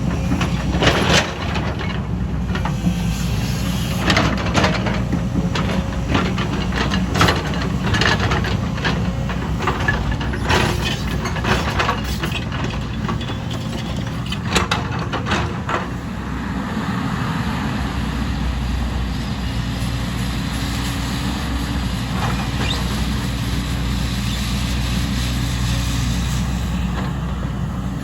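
Heavy earthmoving machine's diesel engine running steadily under work, with frequent metal clanks and knocks during the first half. From a little past halfway the engine runs on steadier with few knocks.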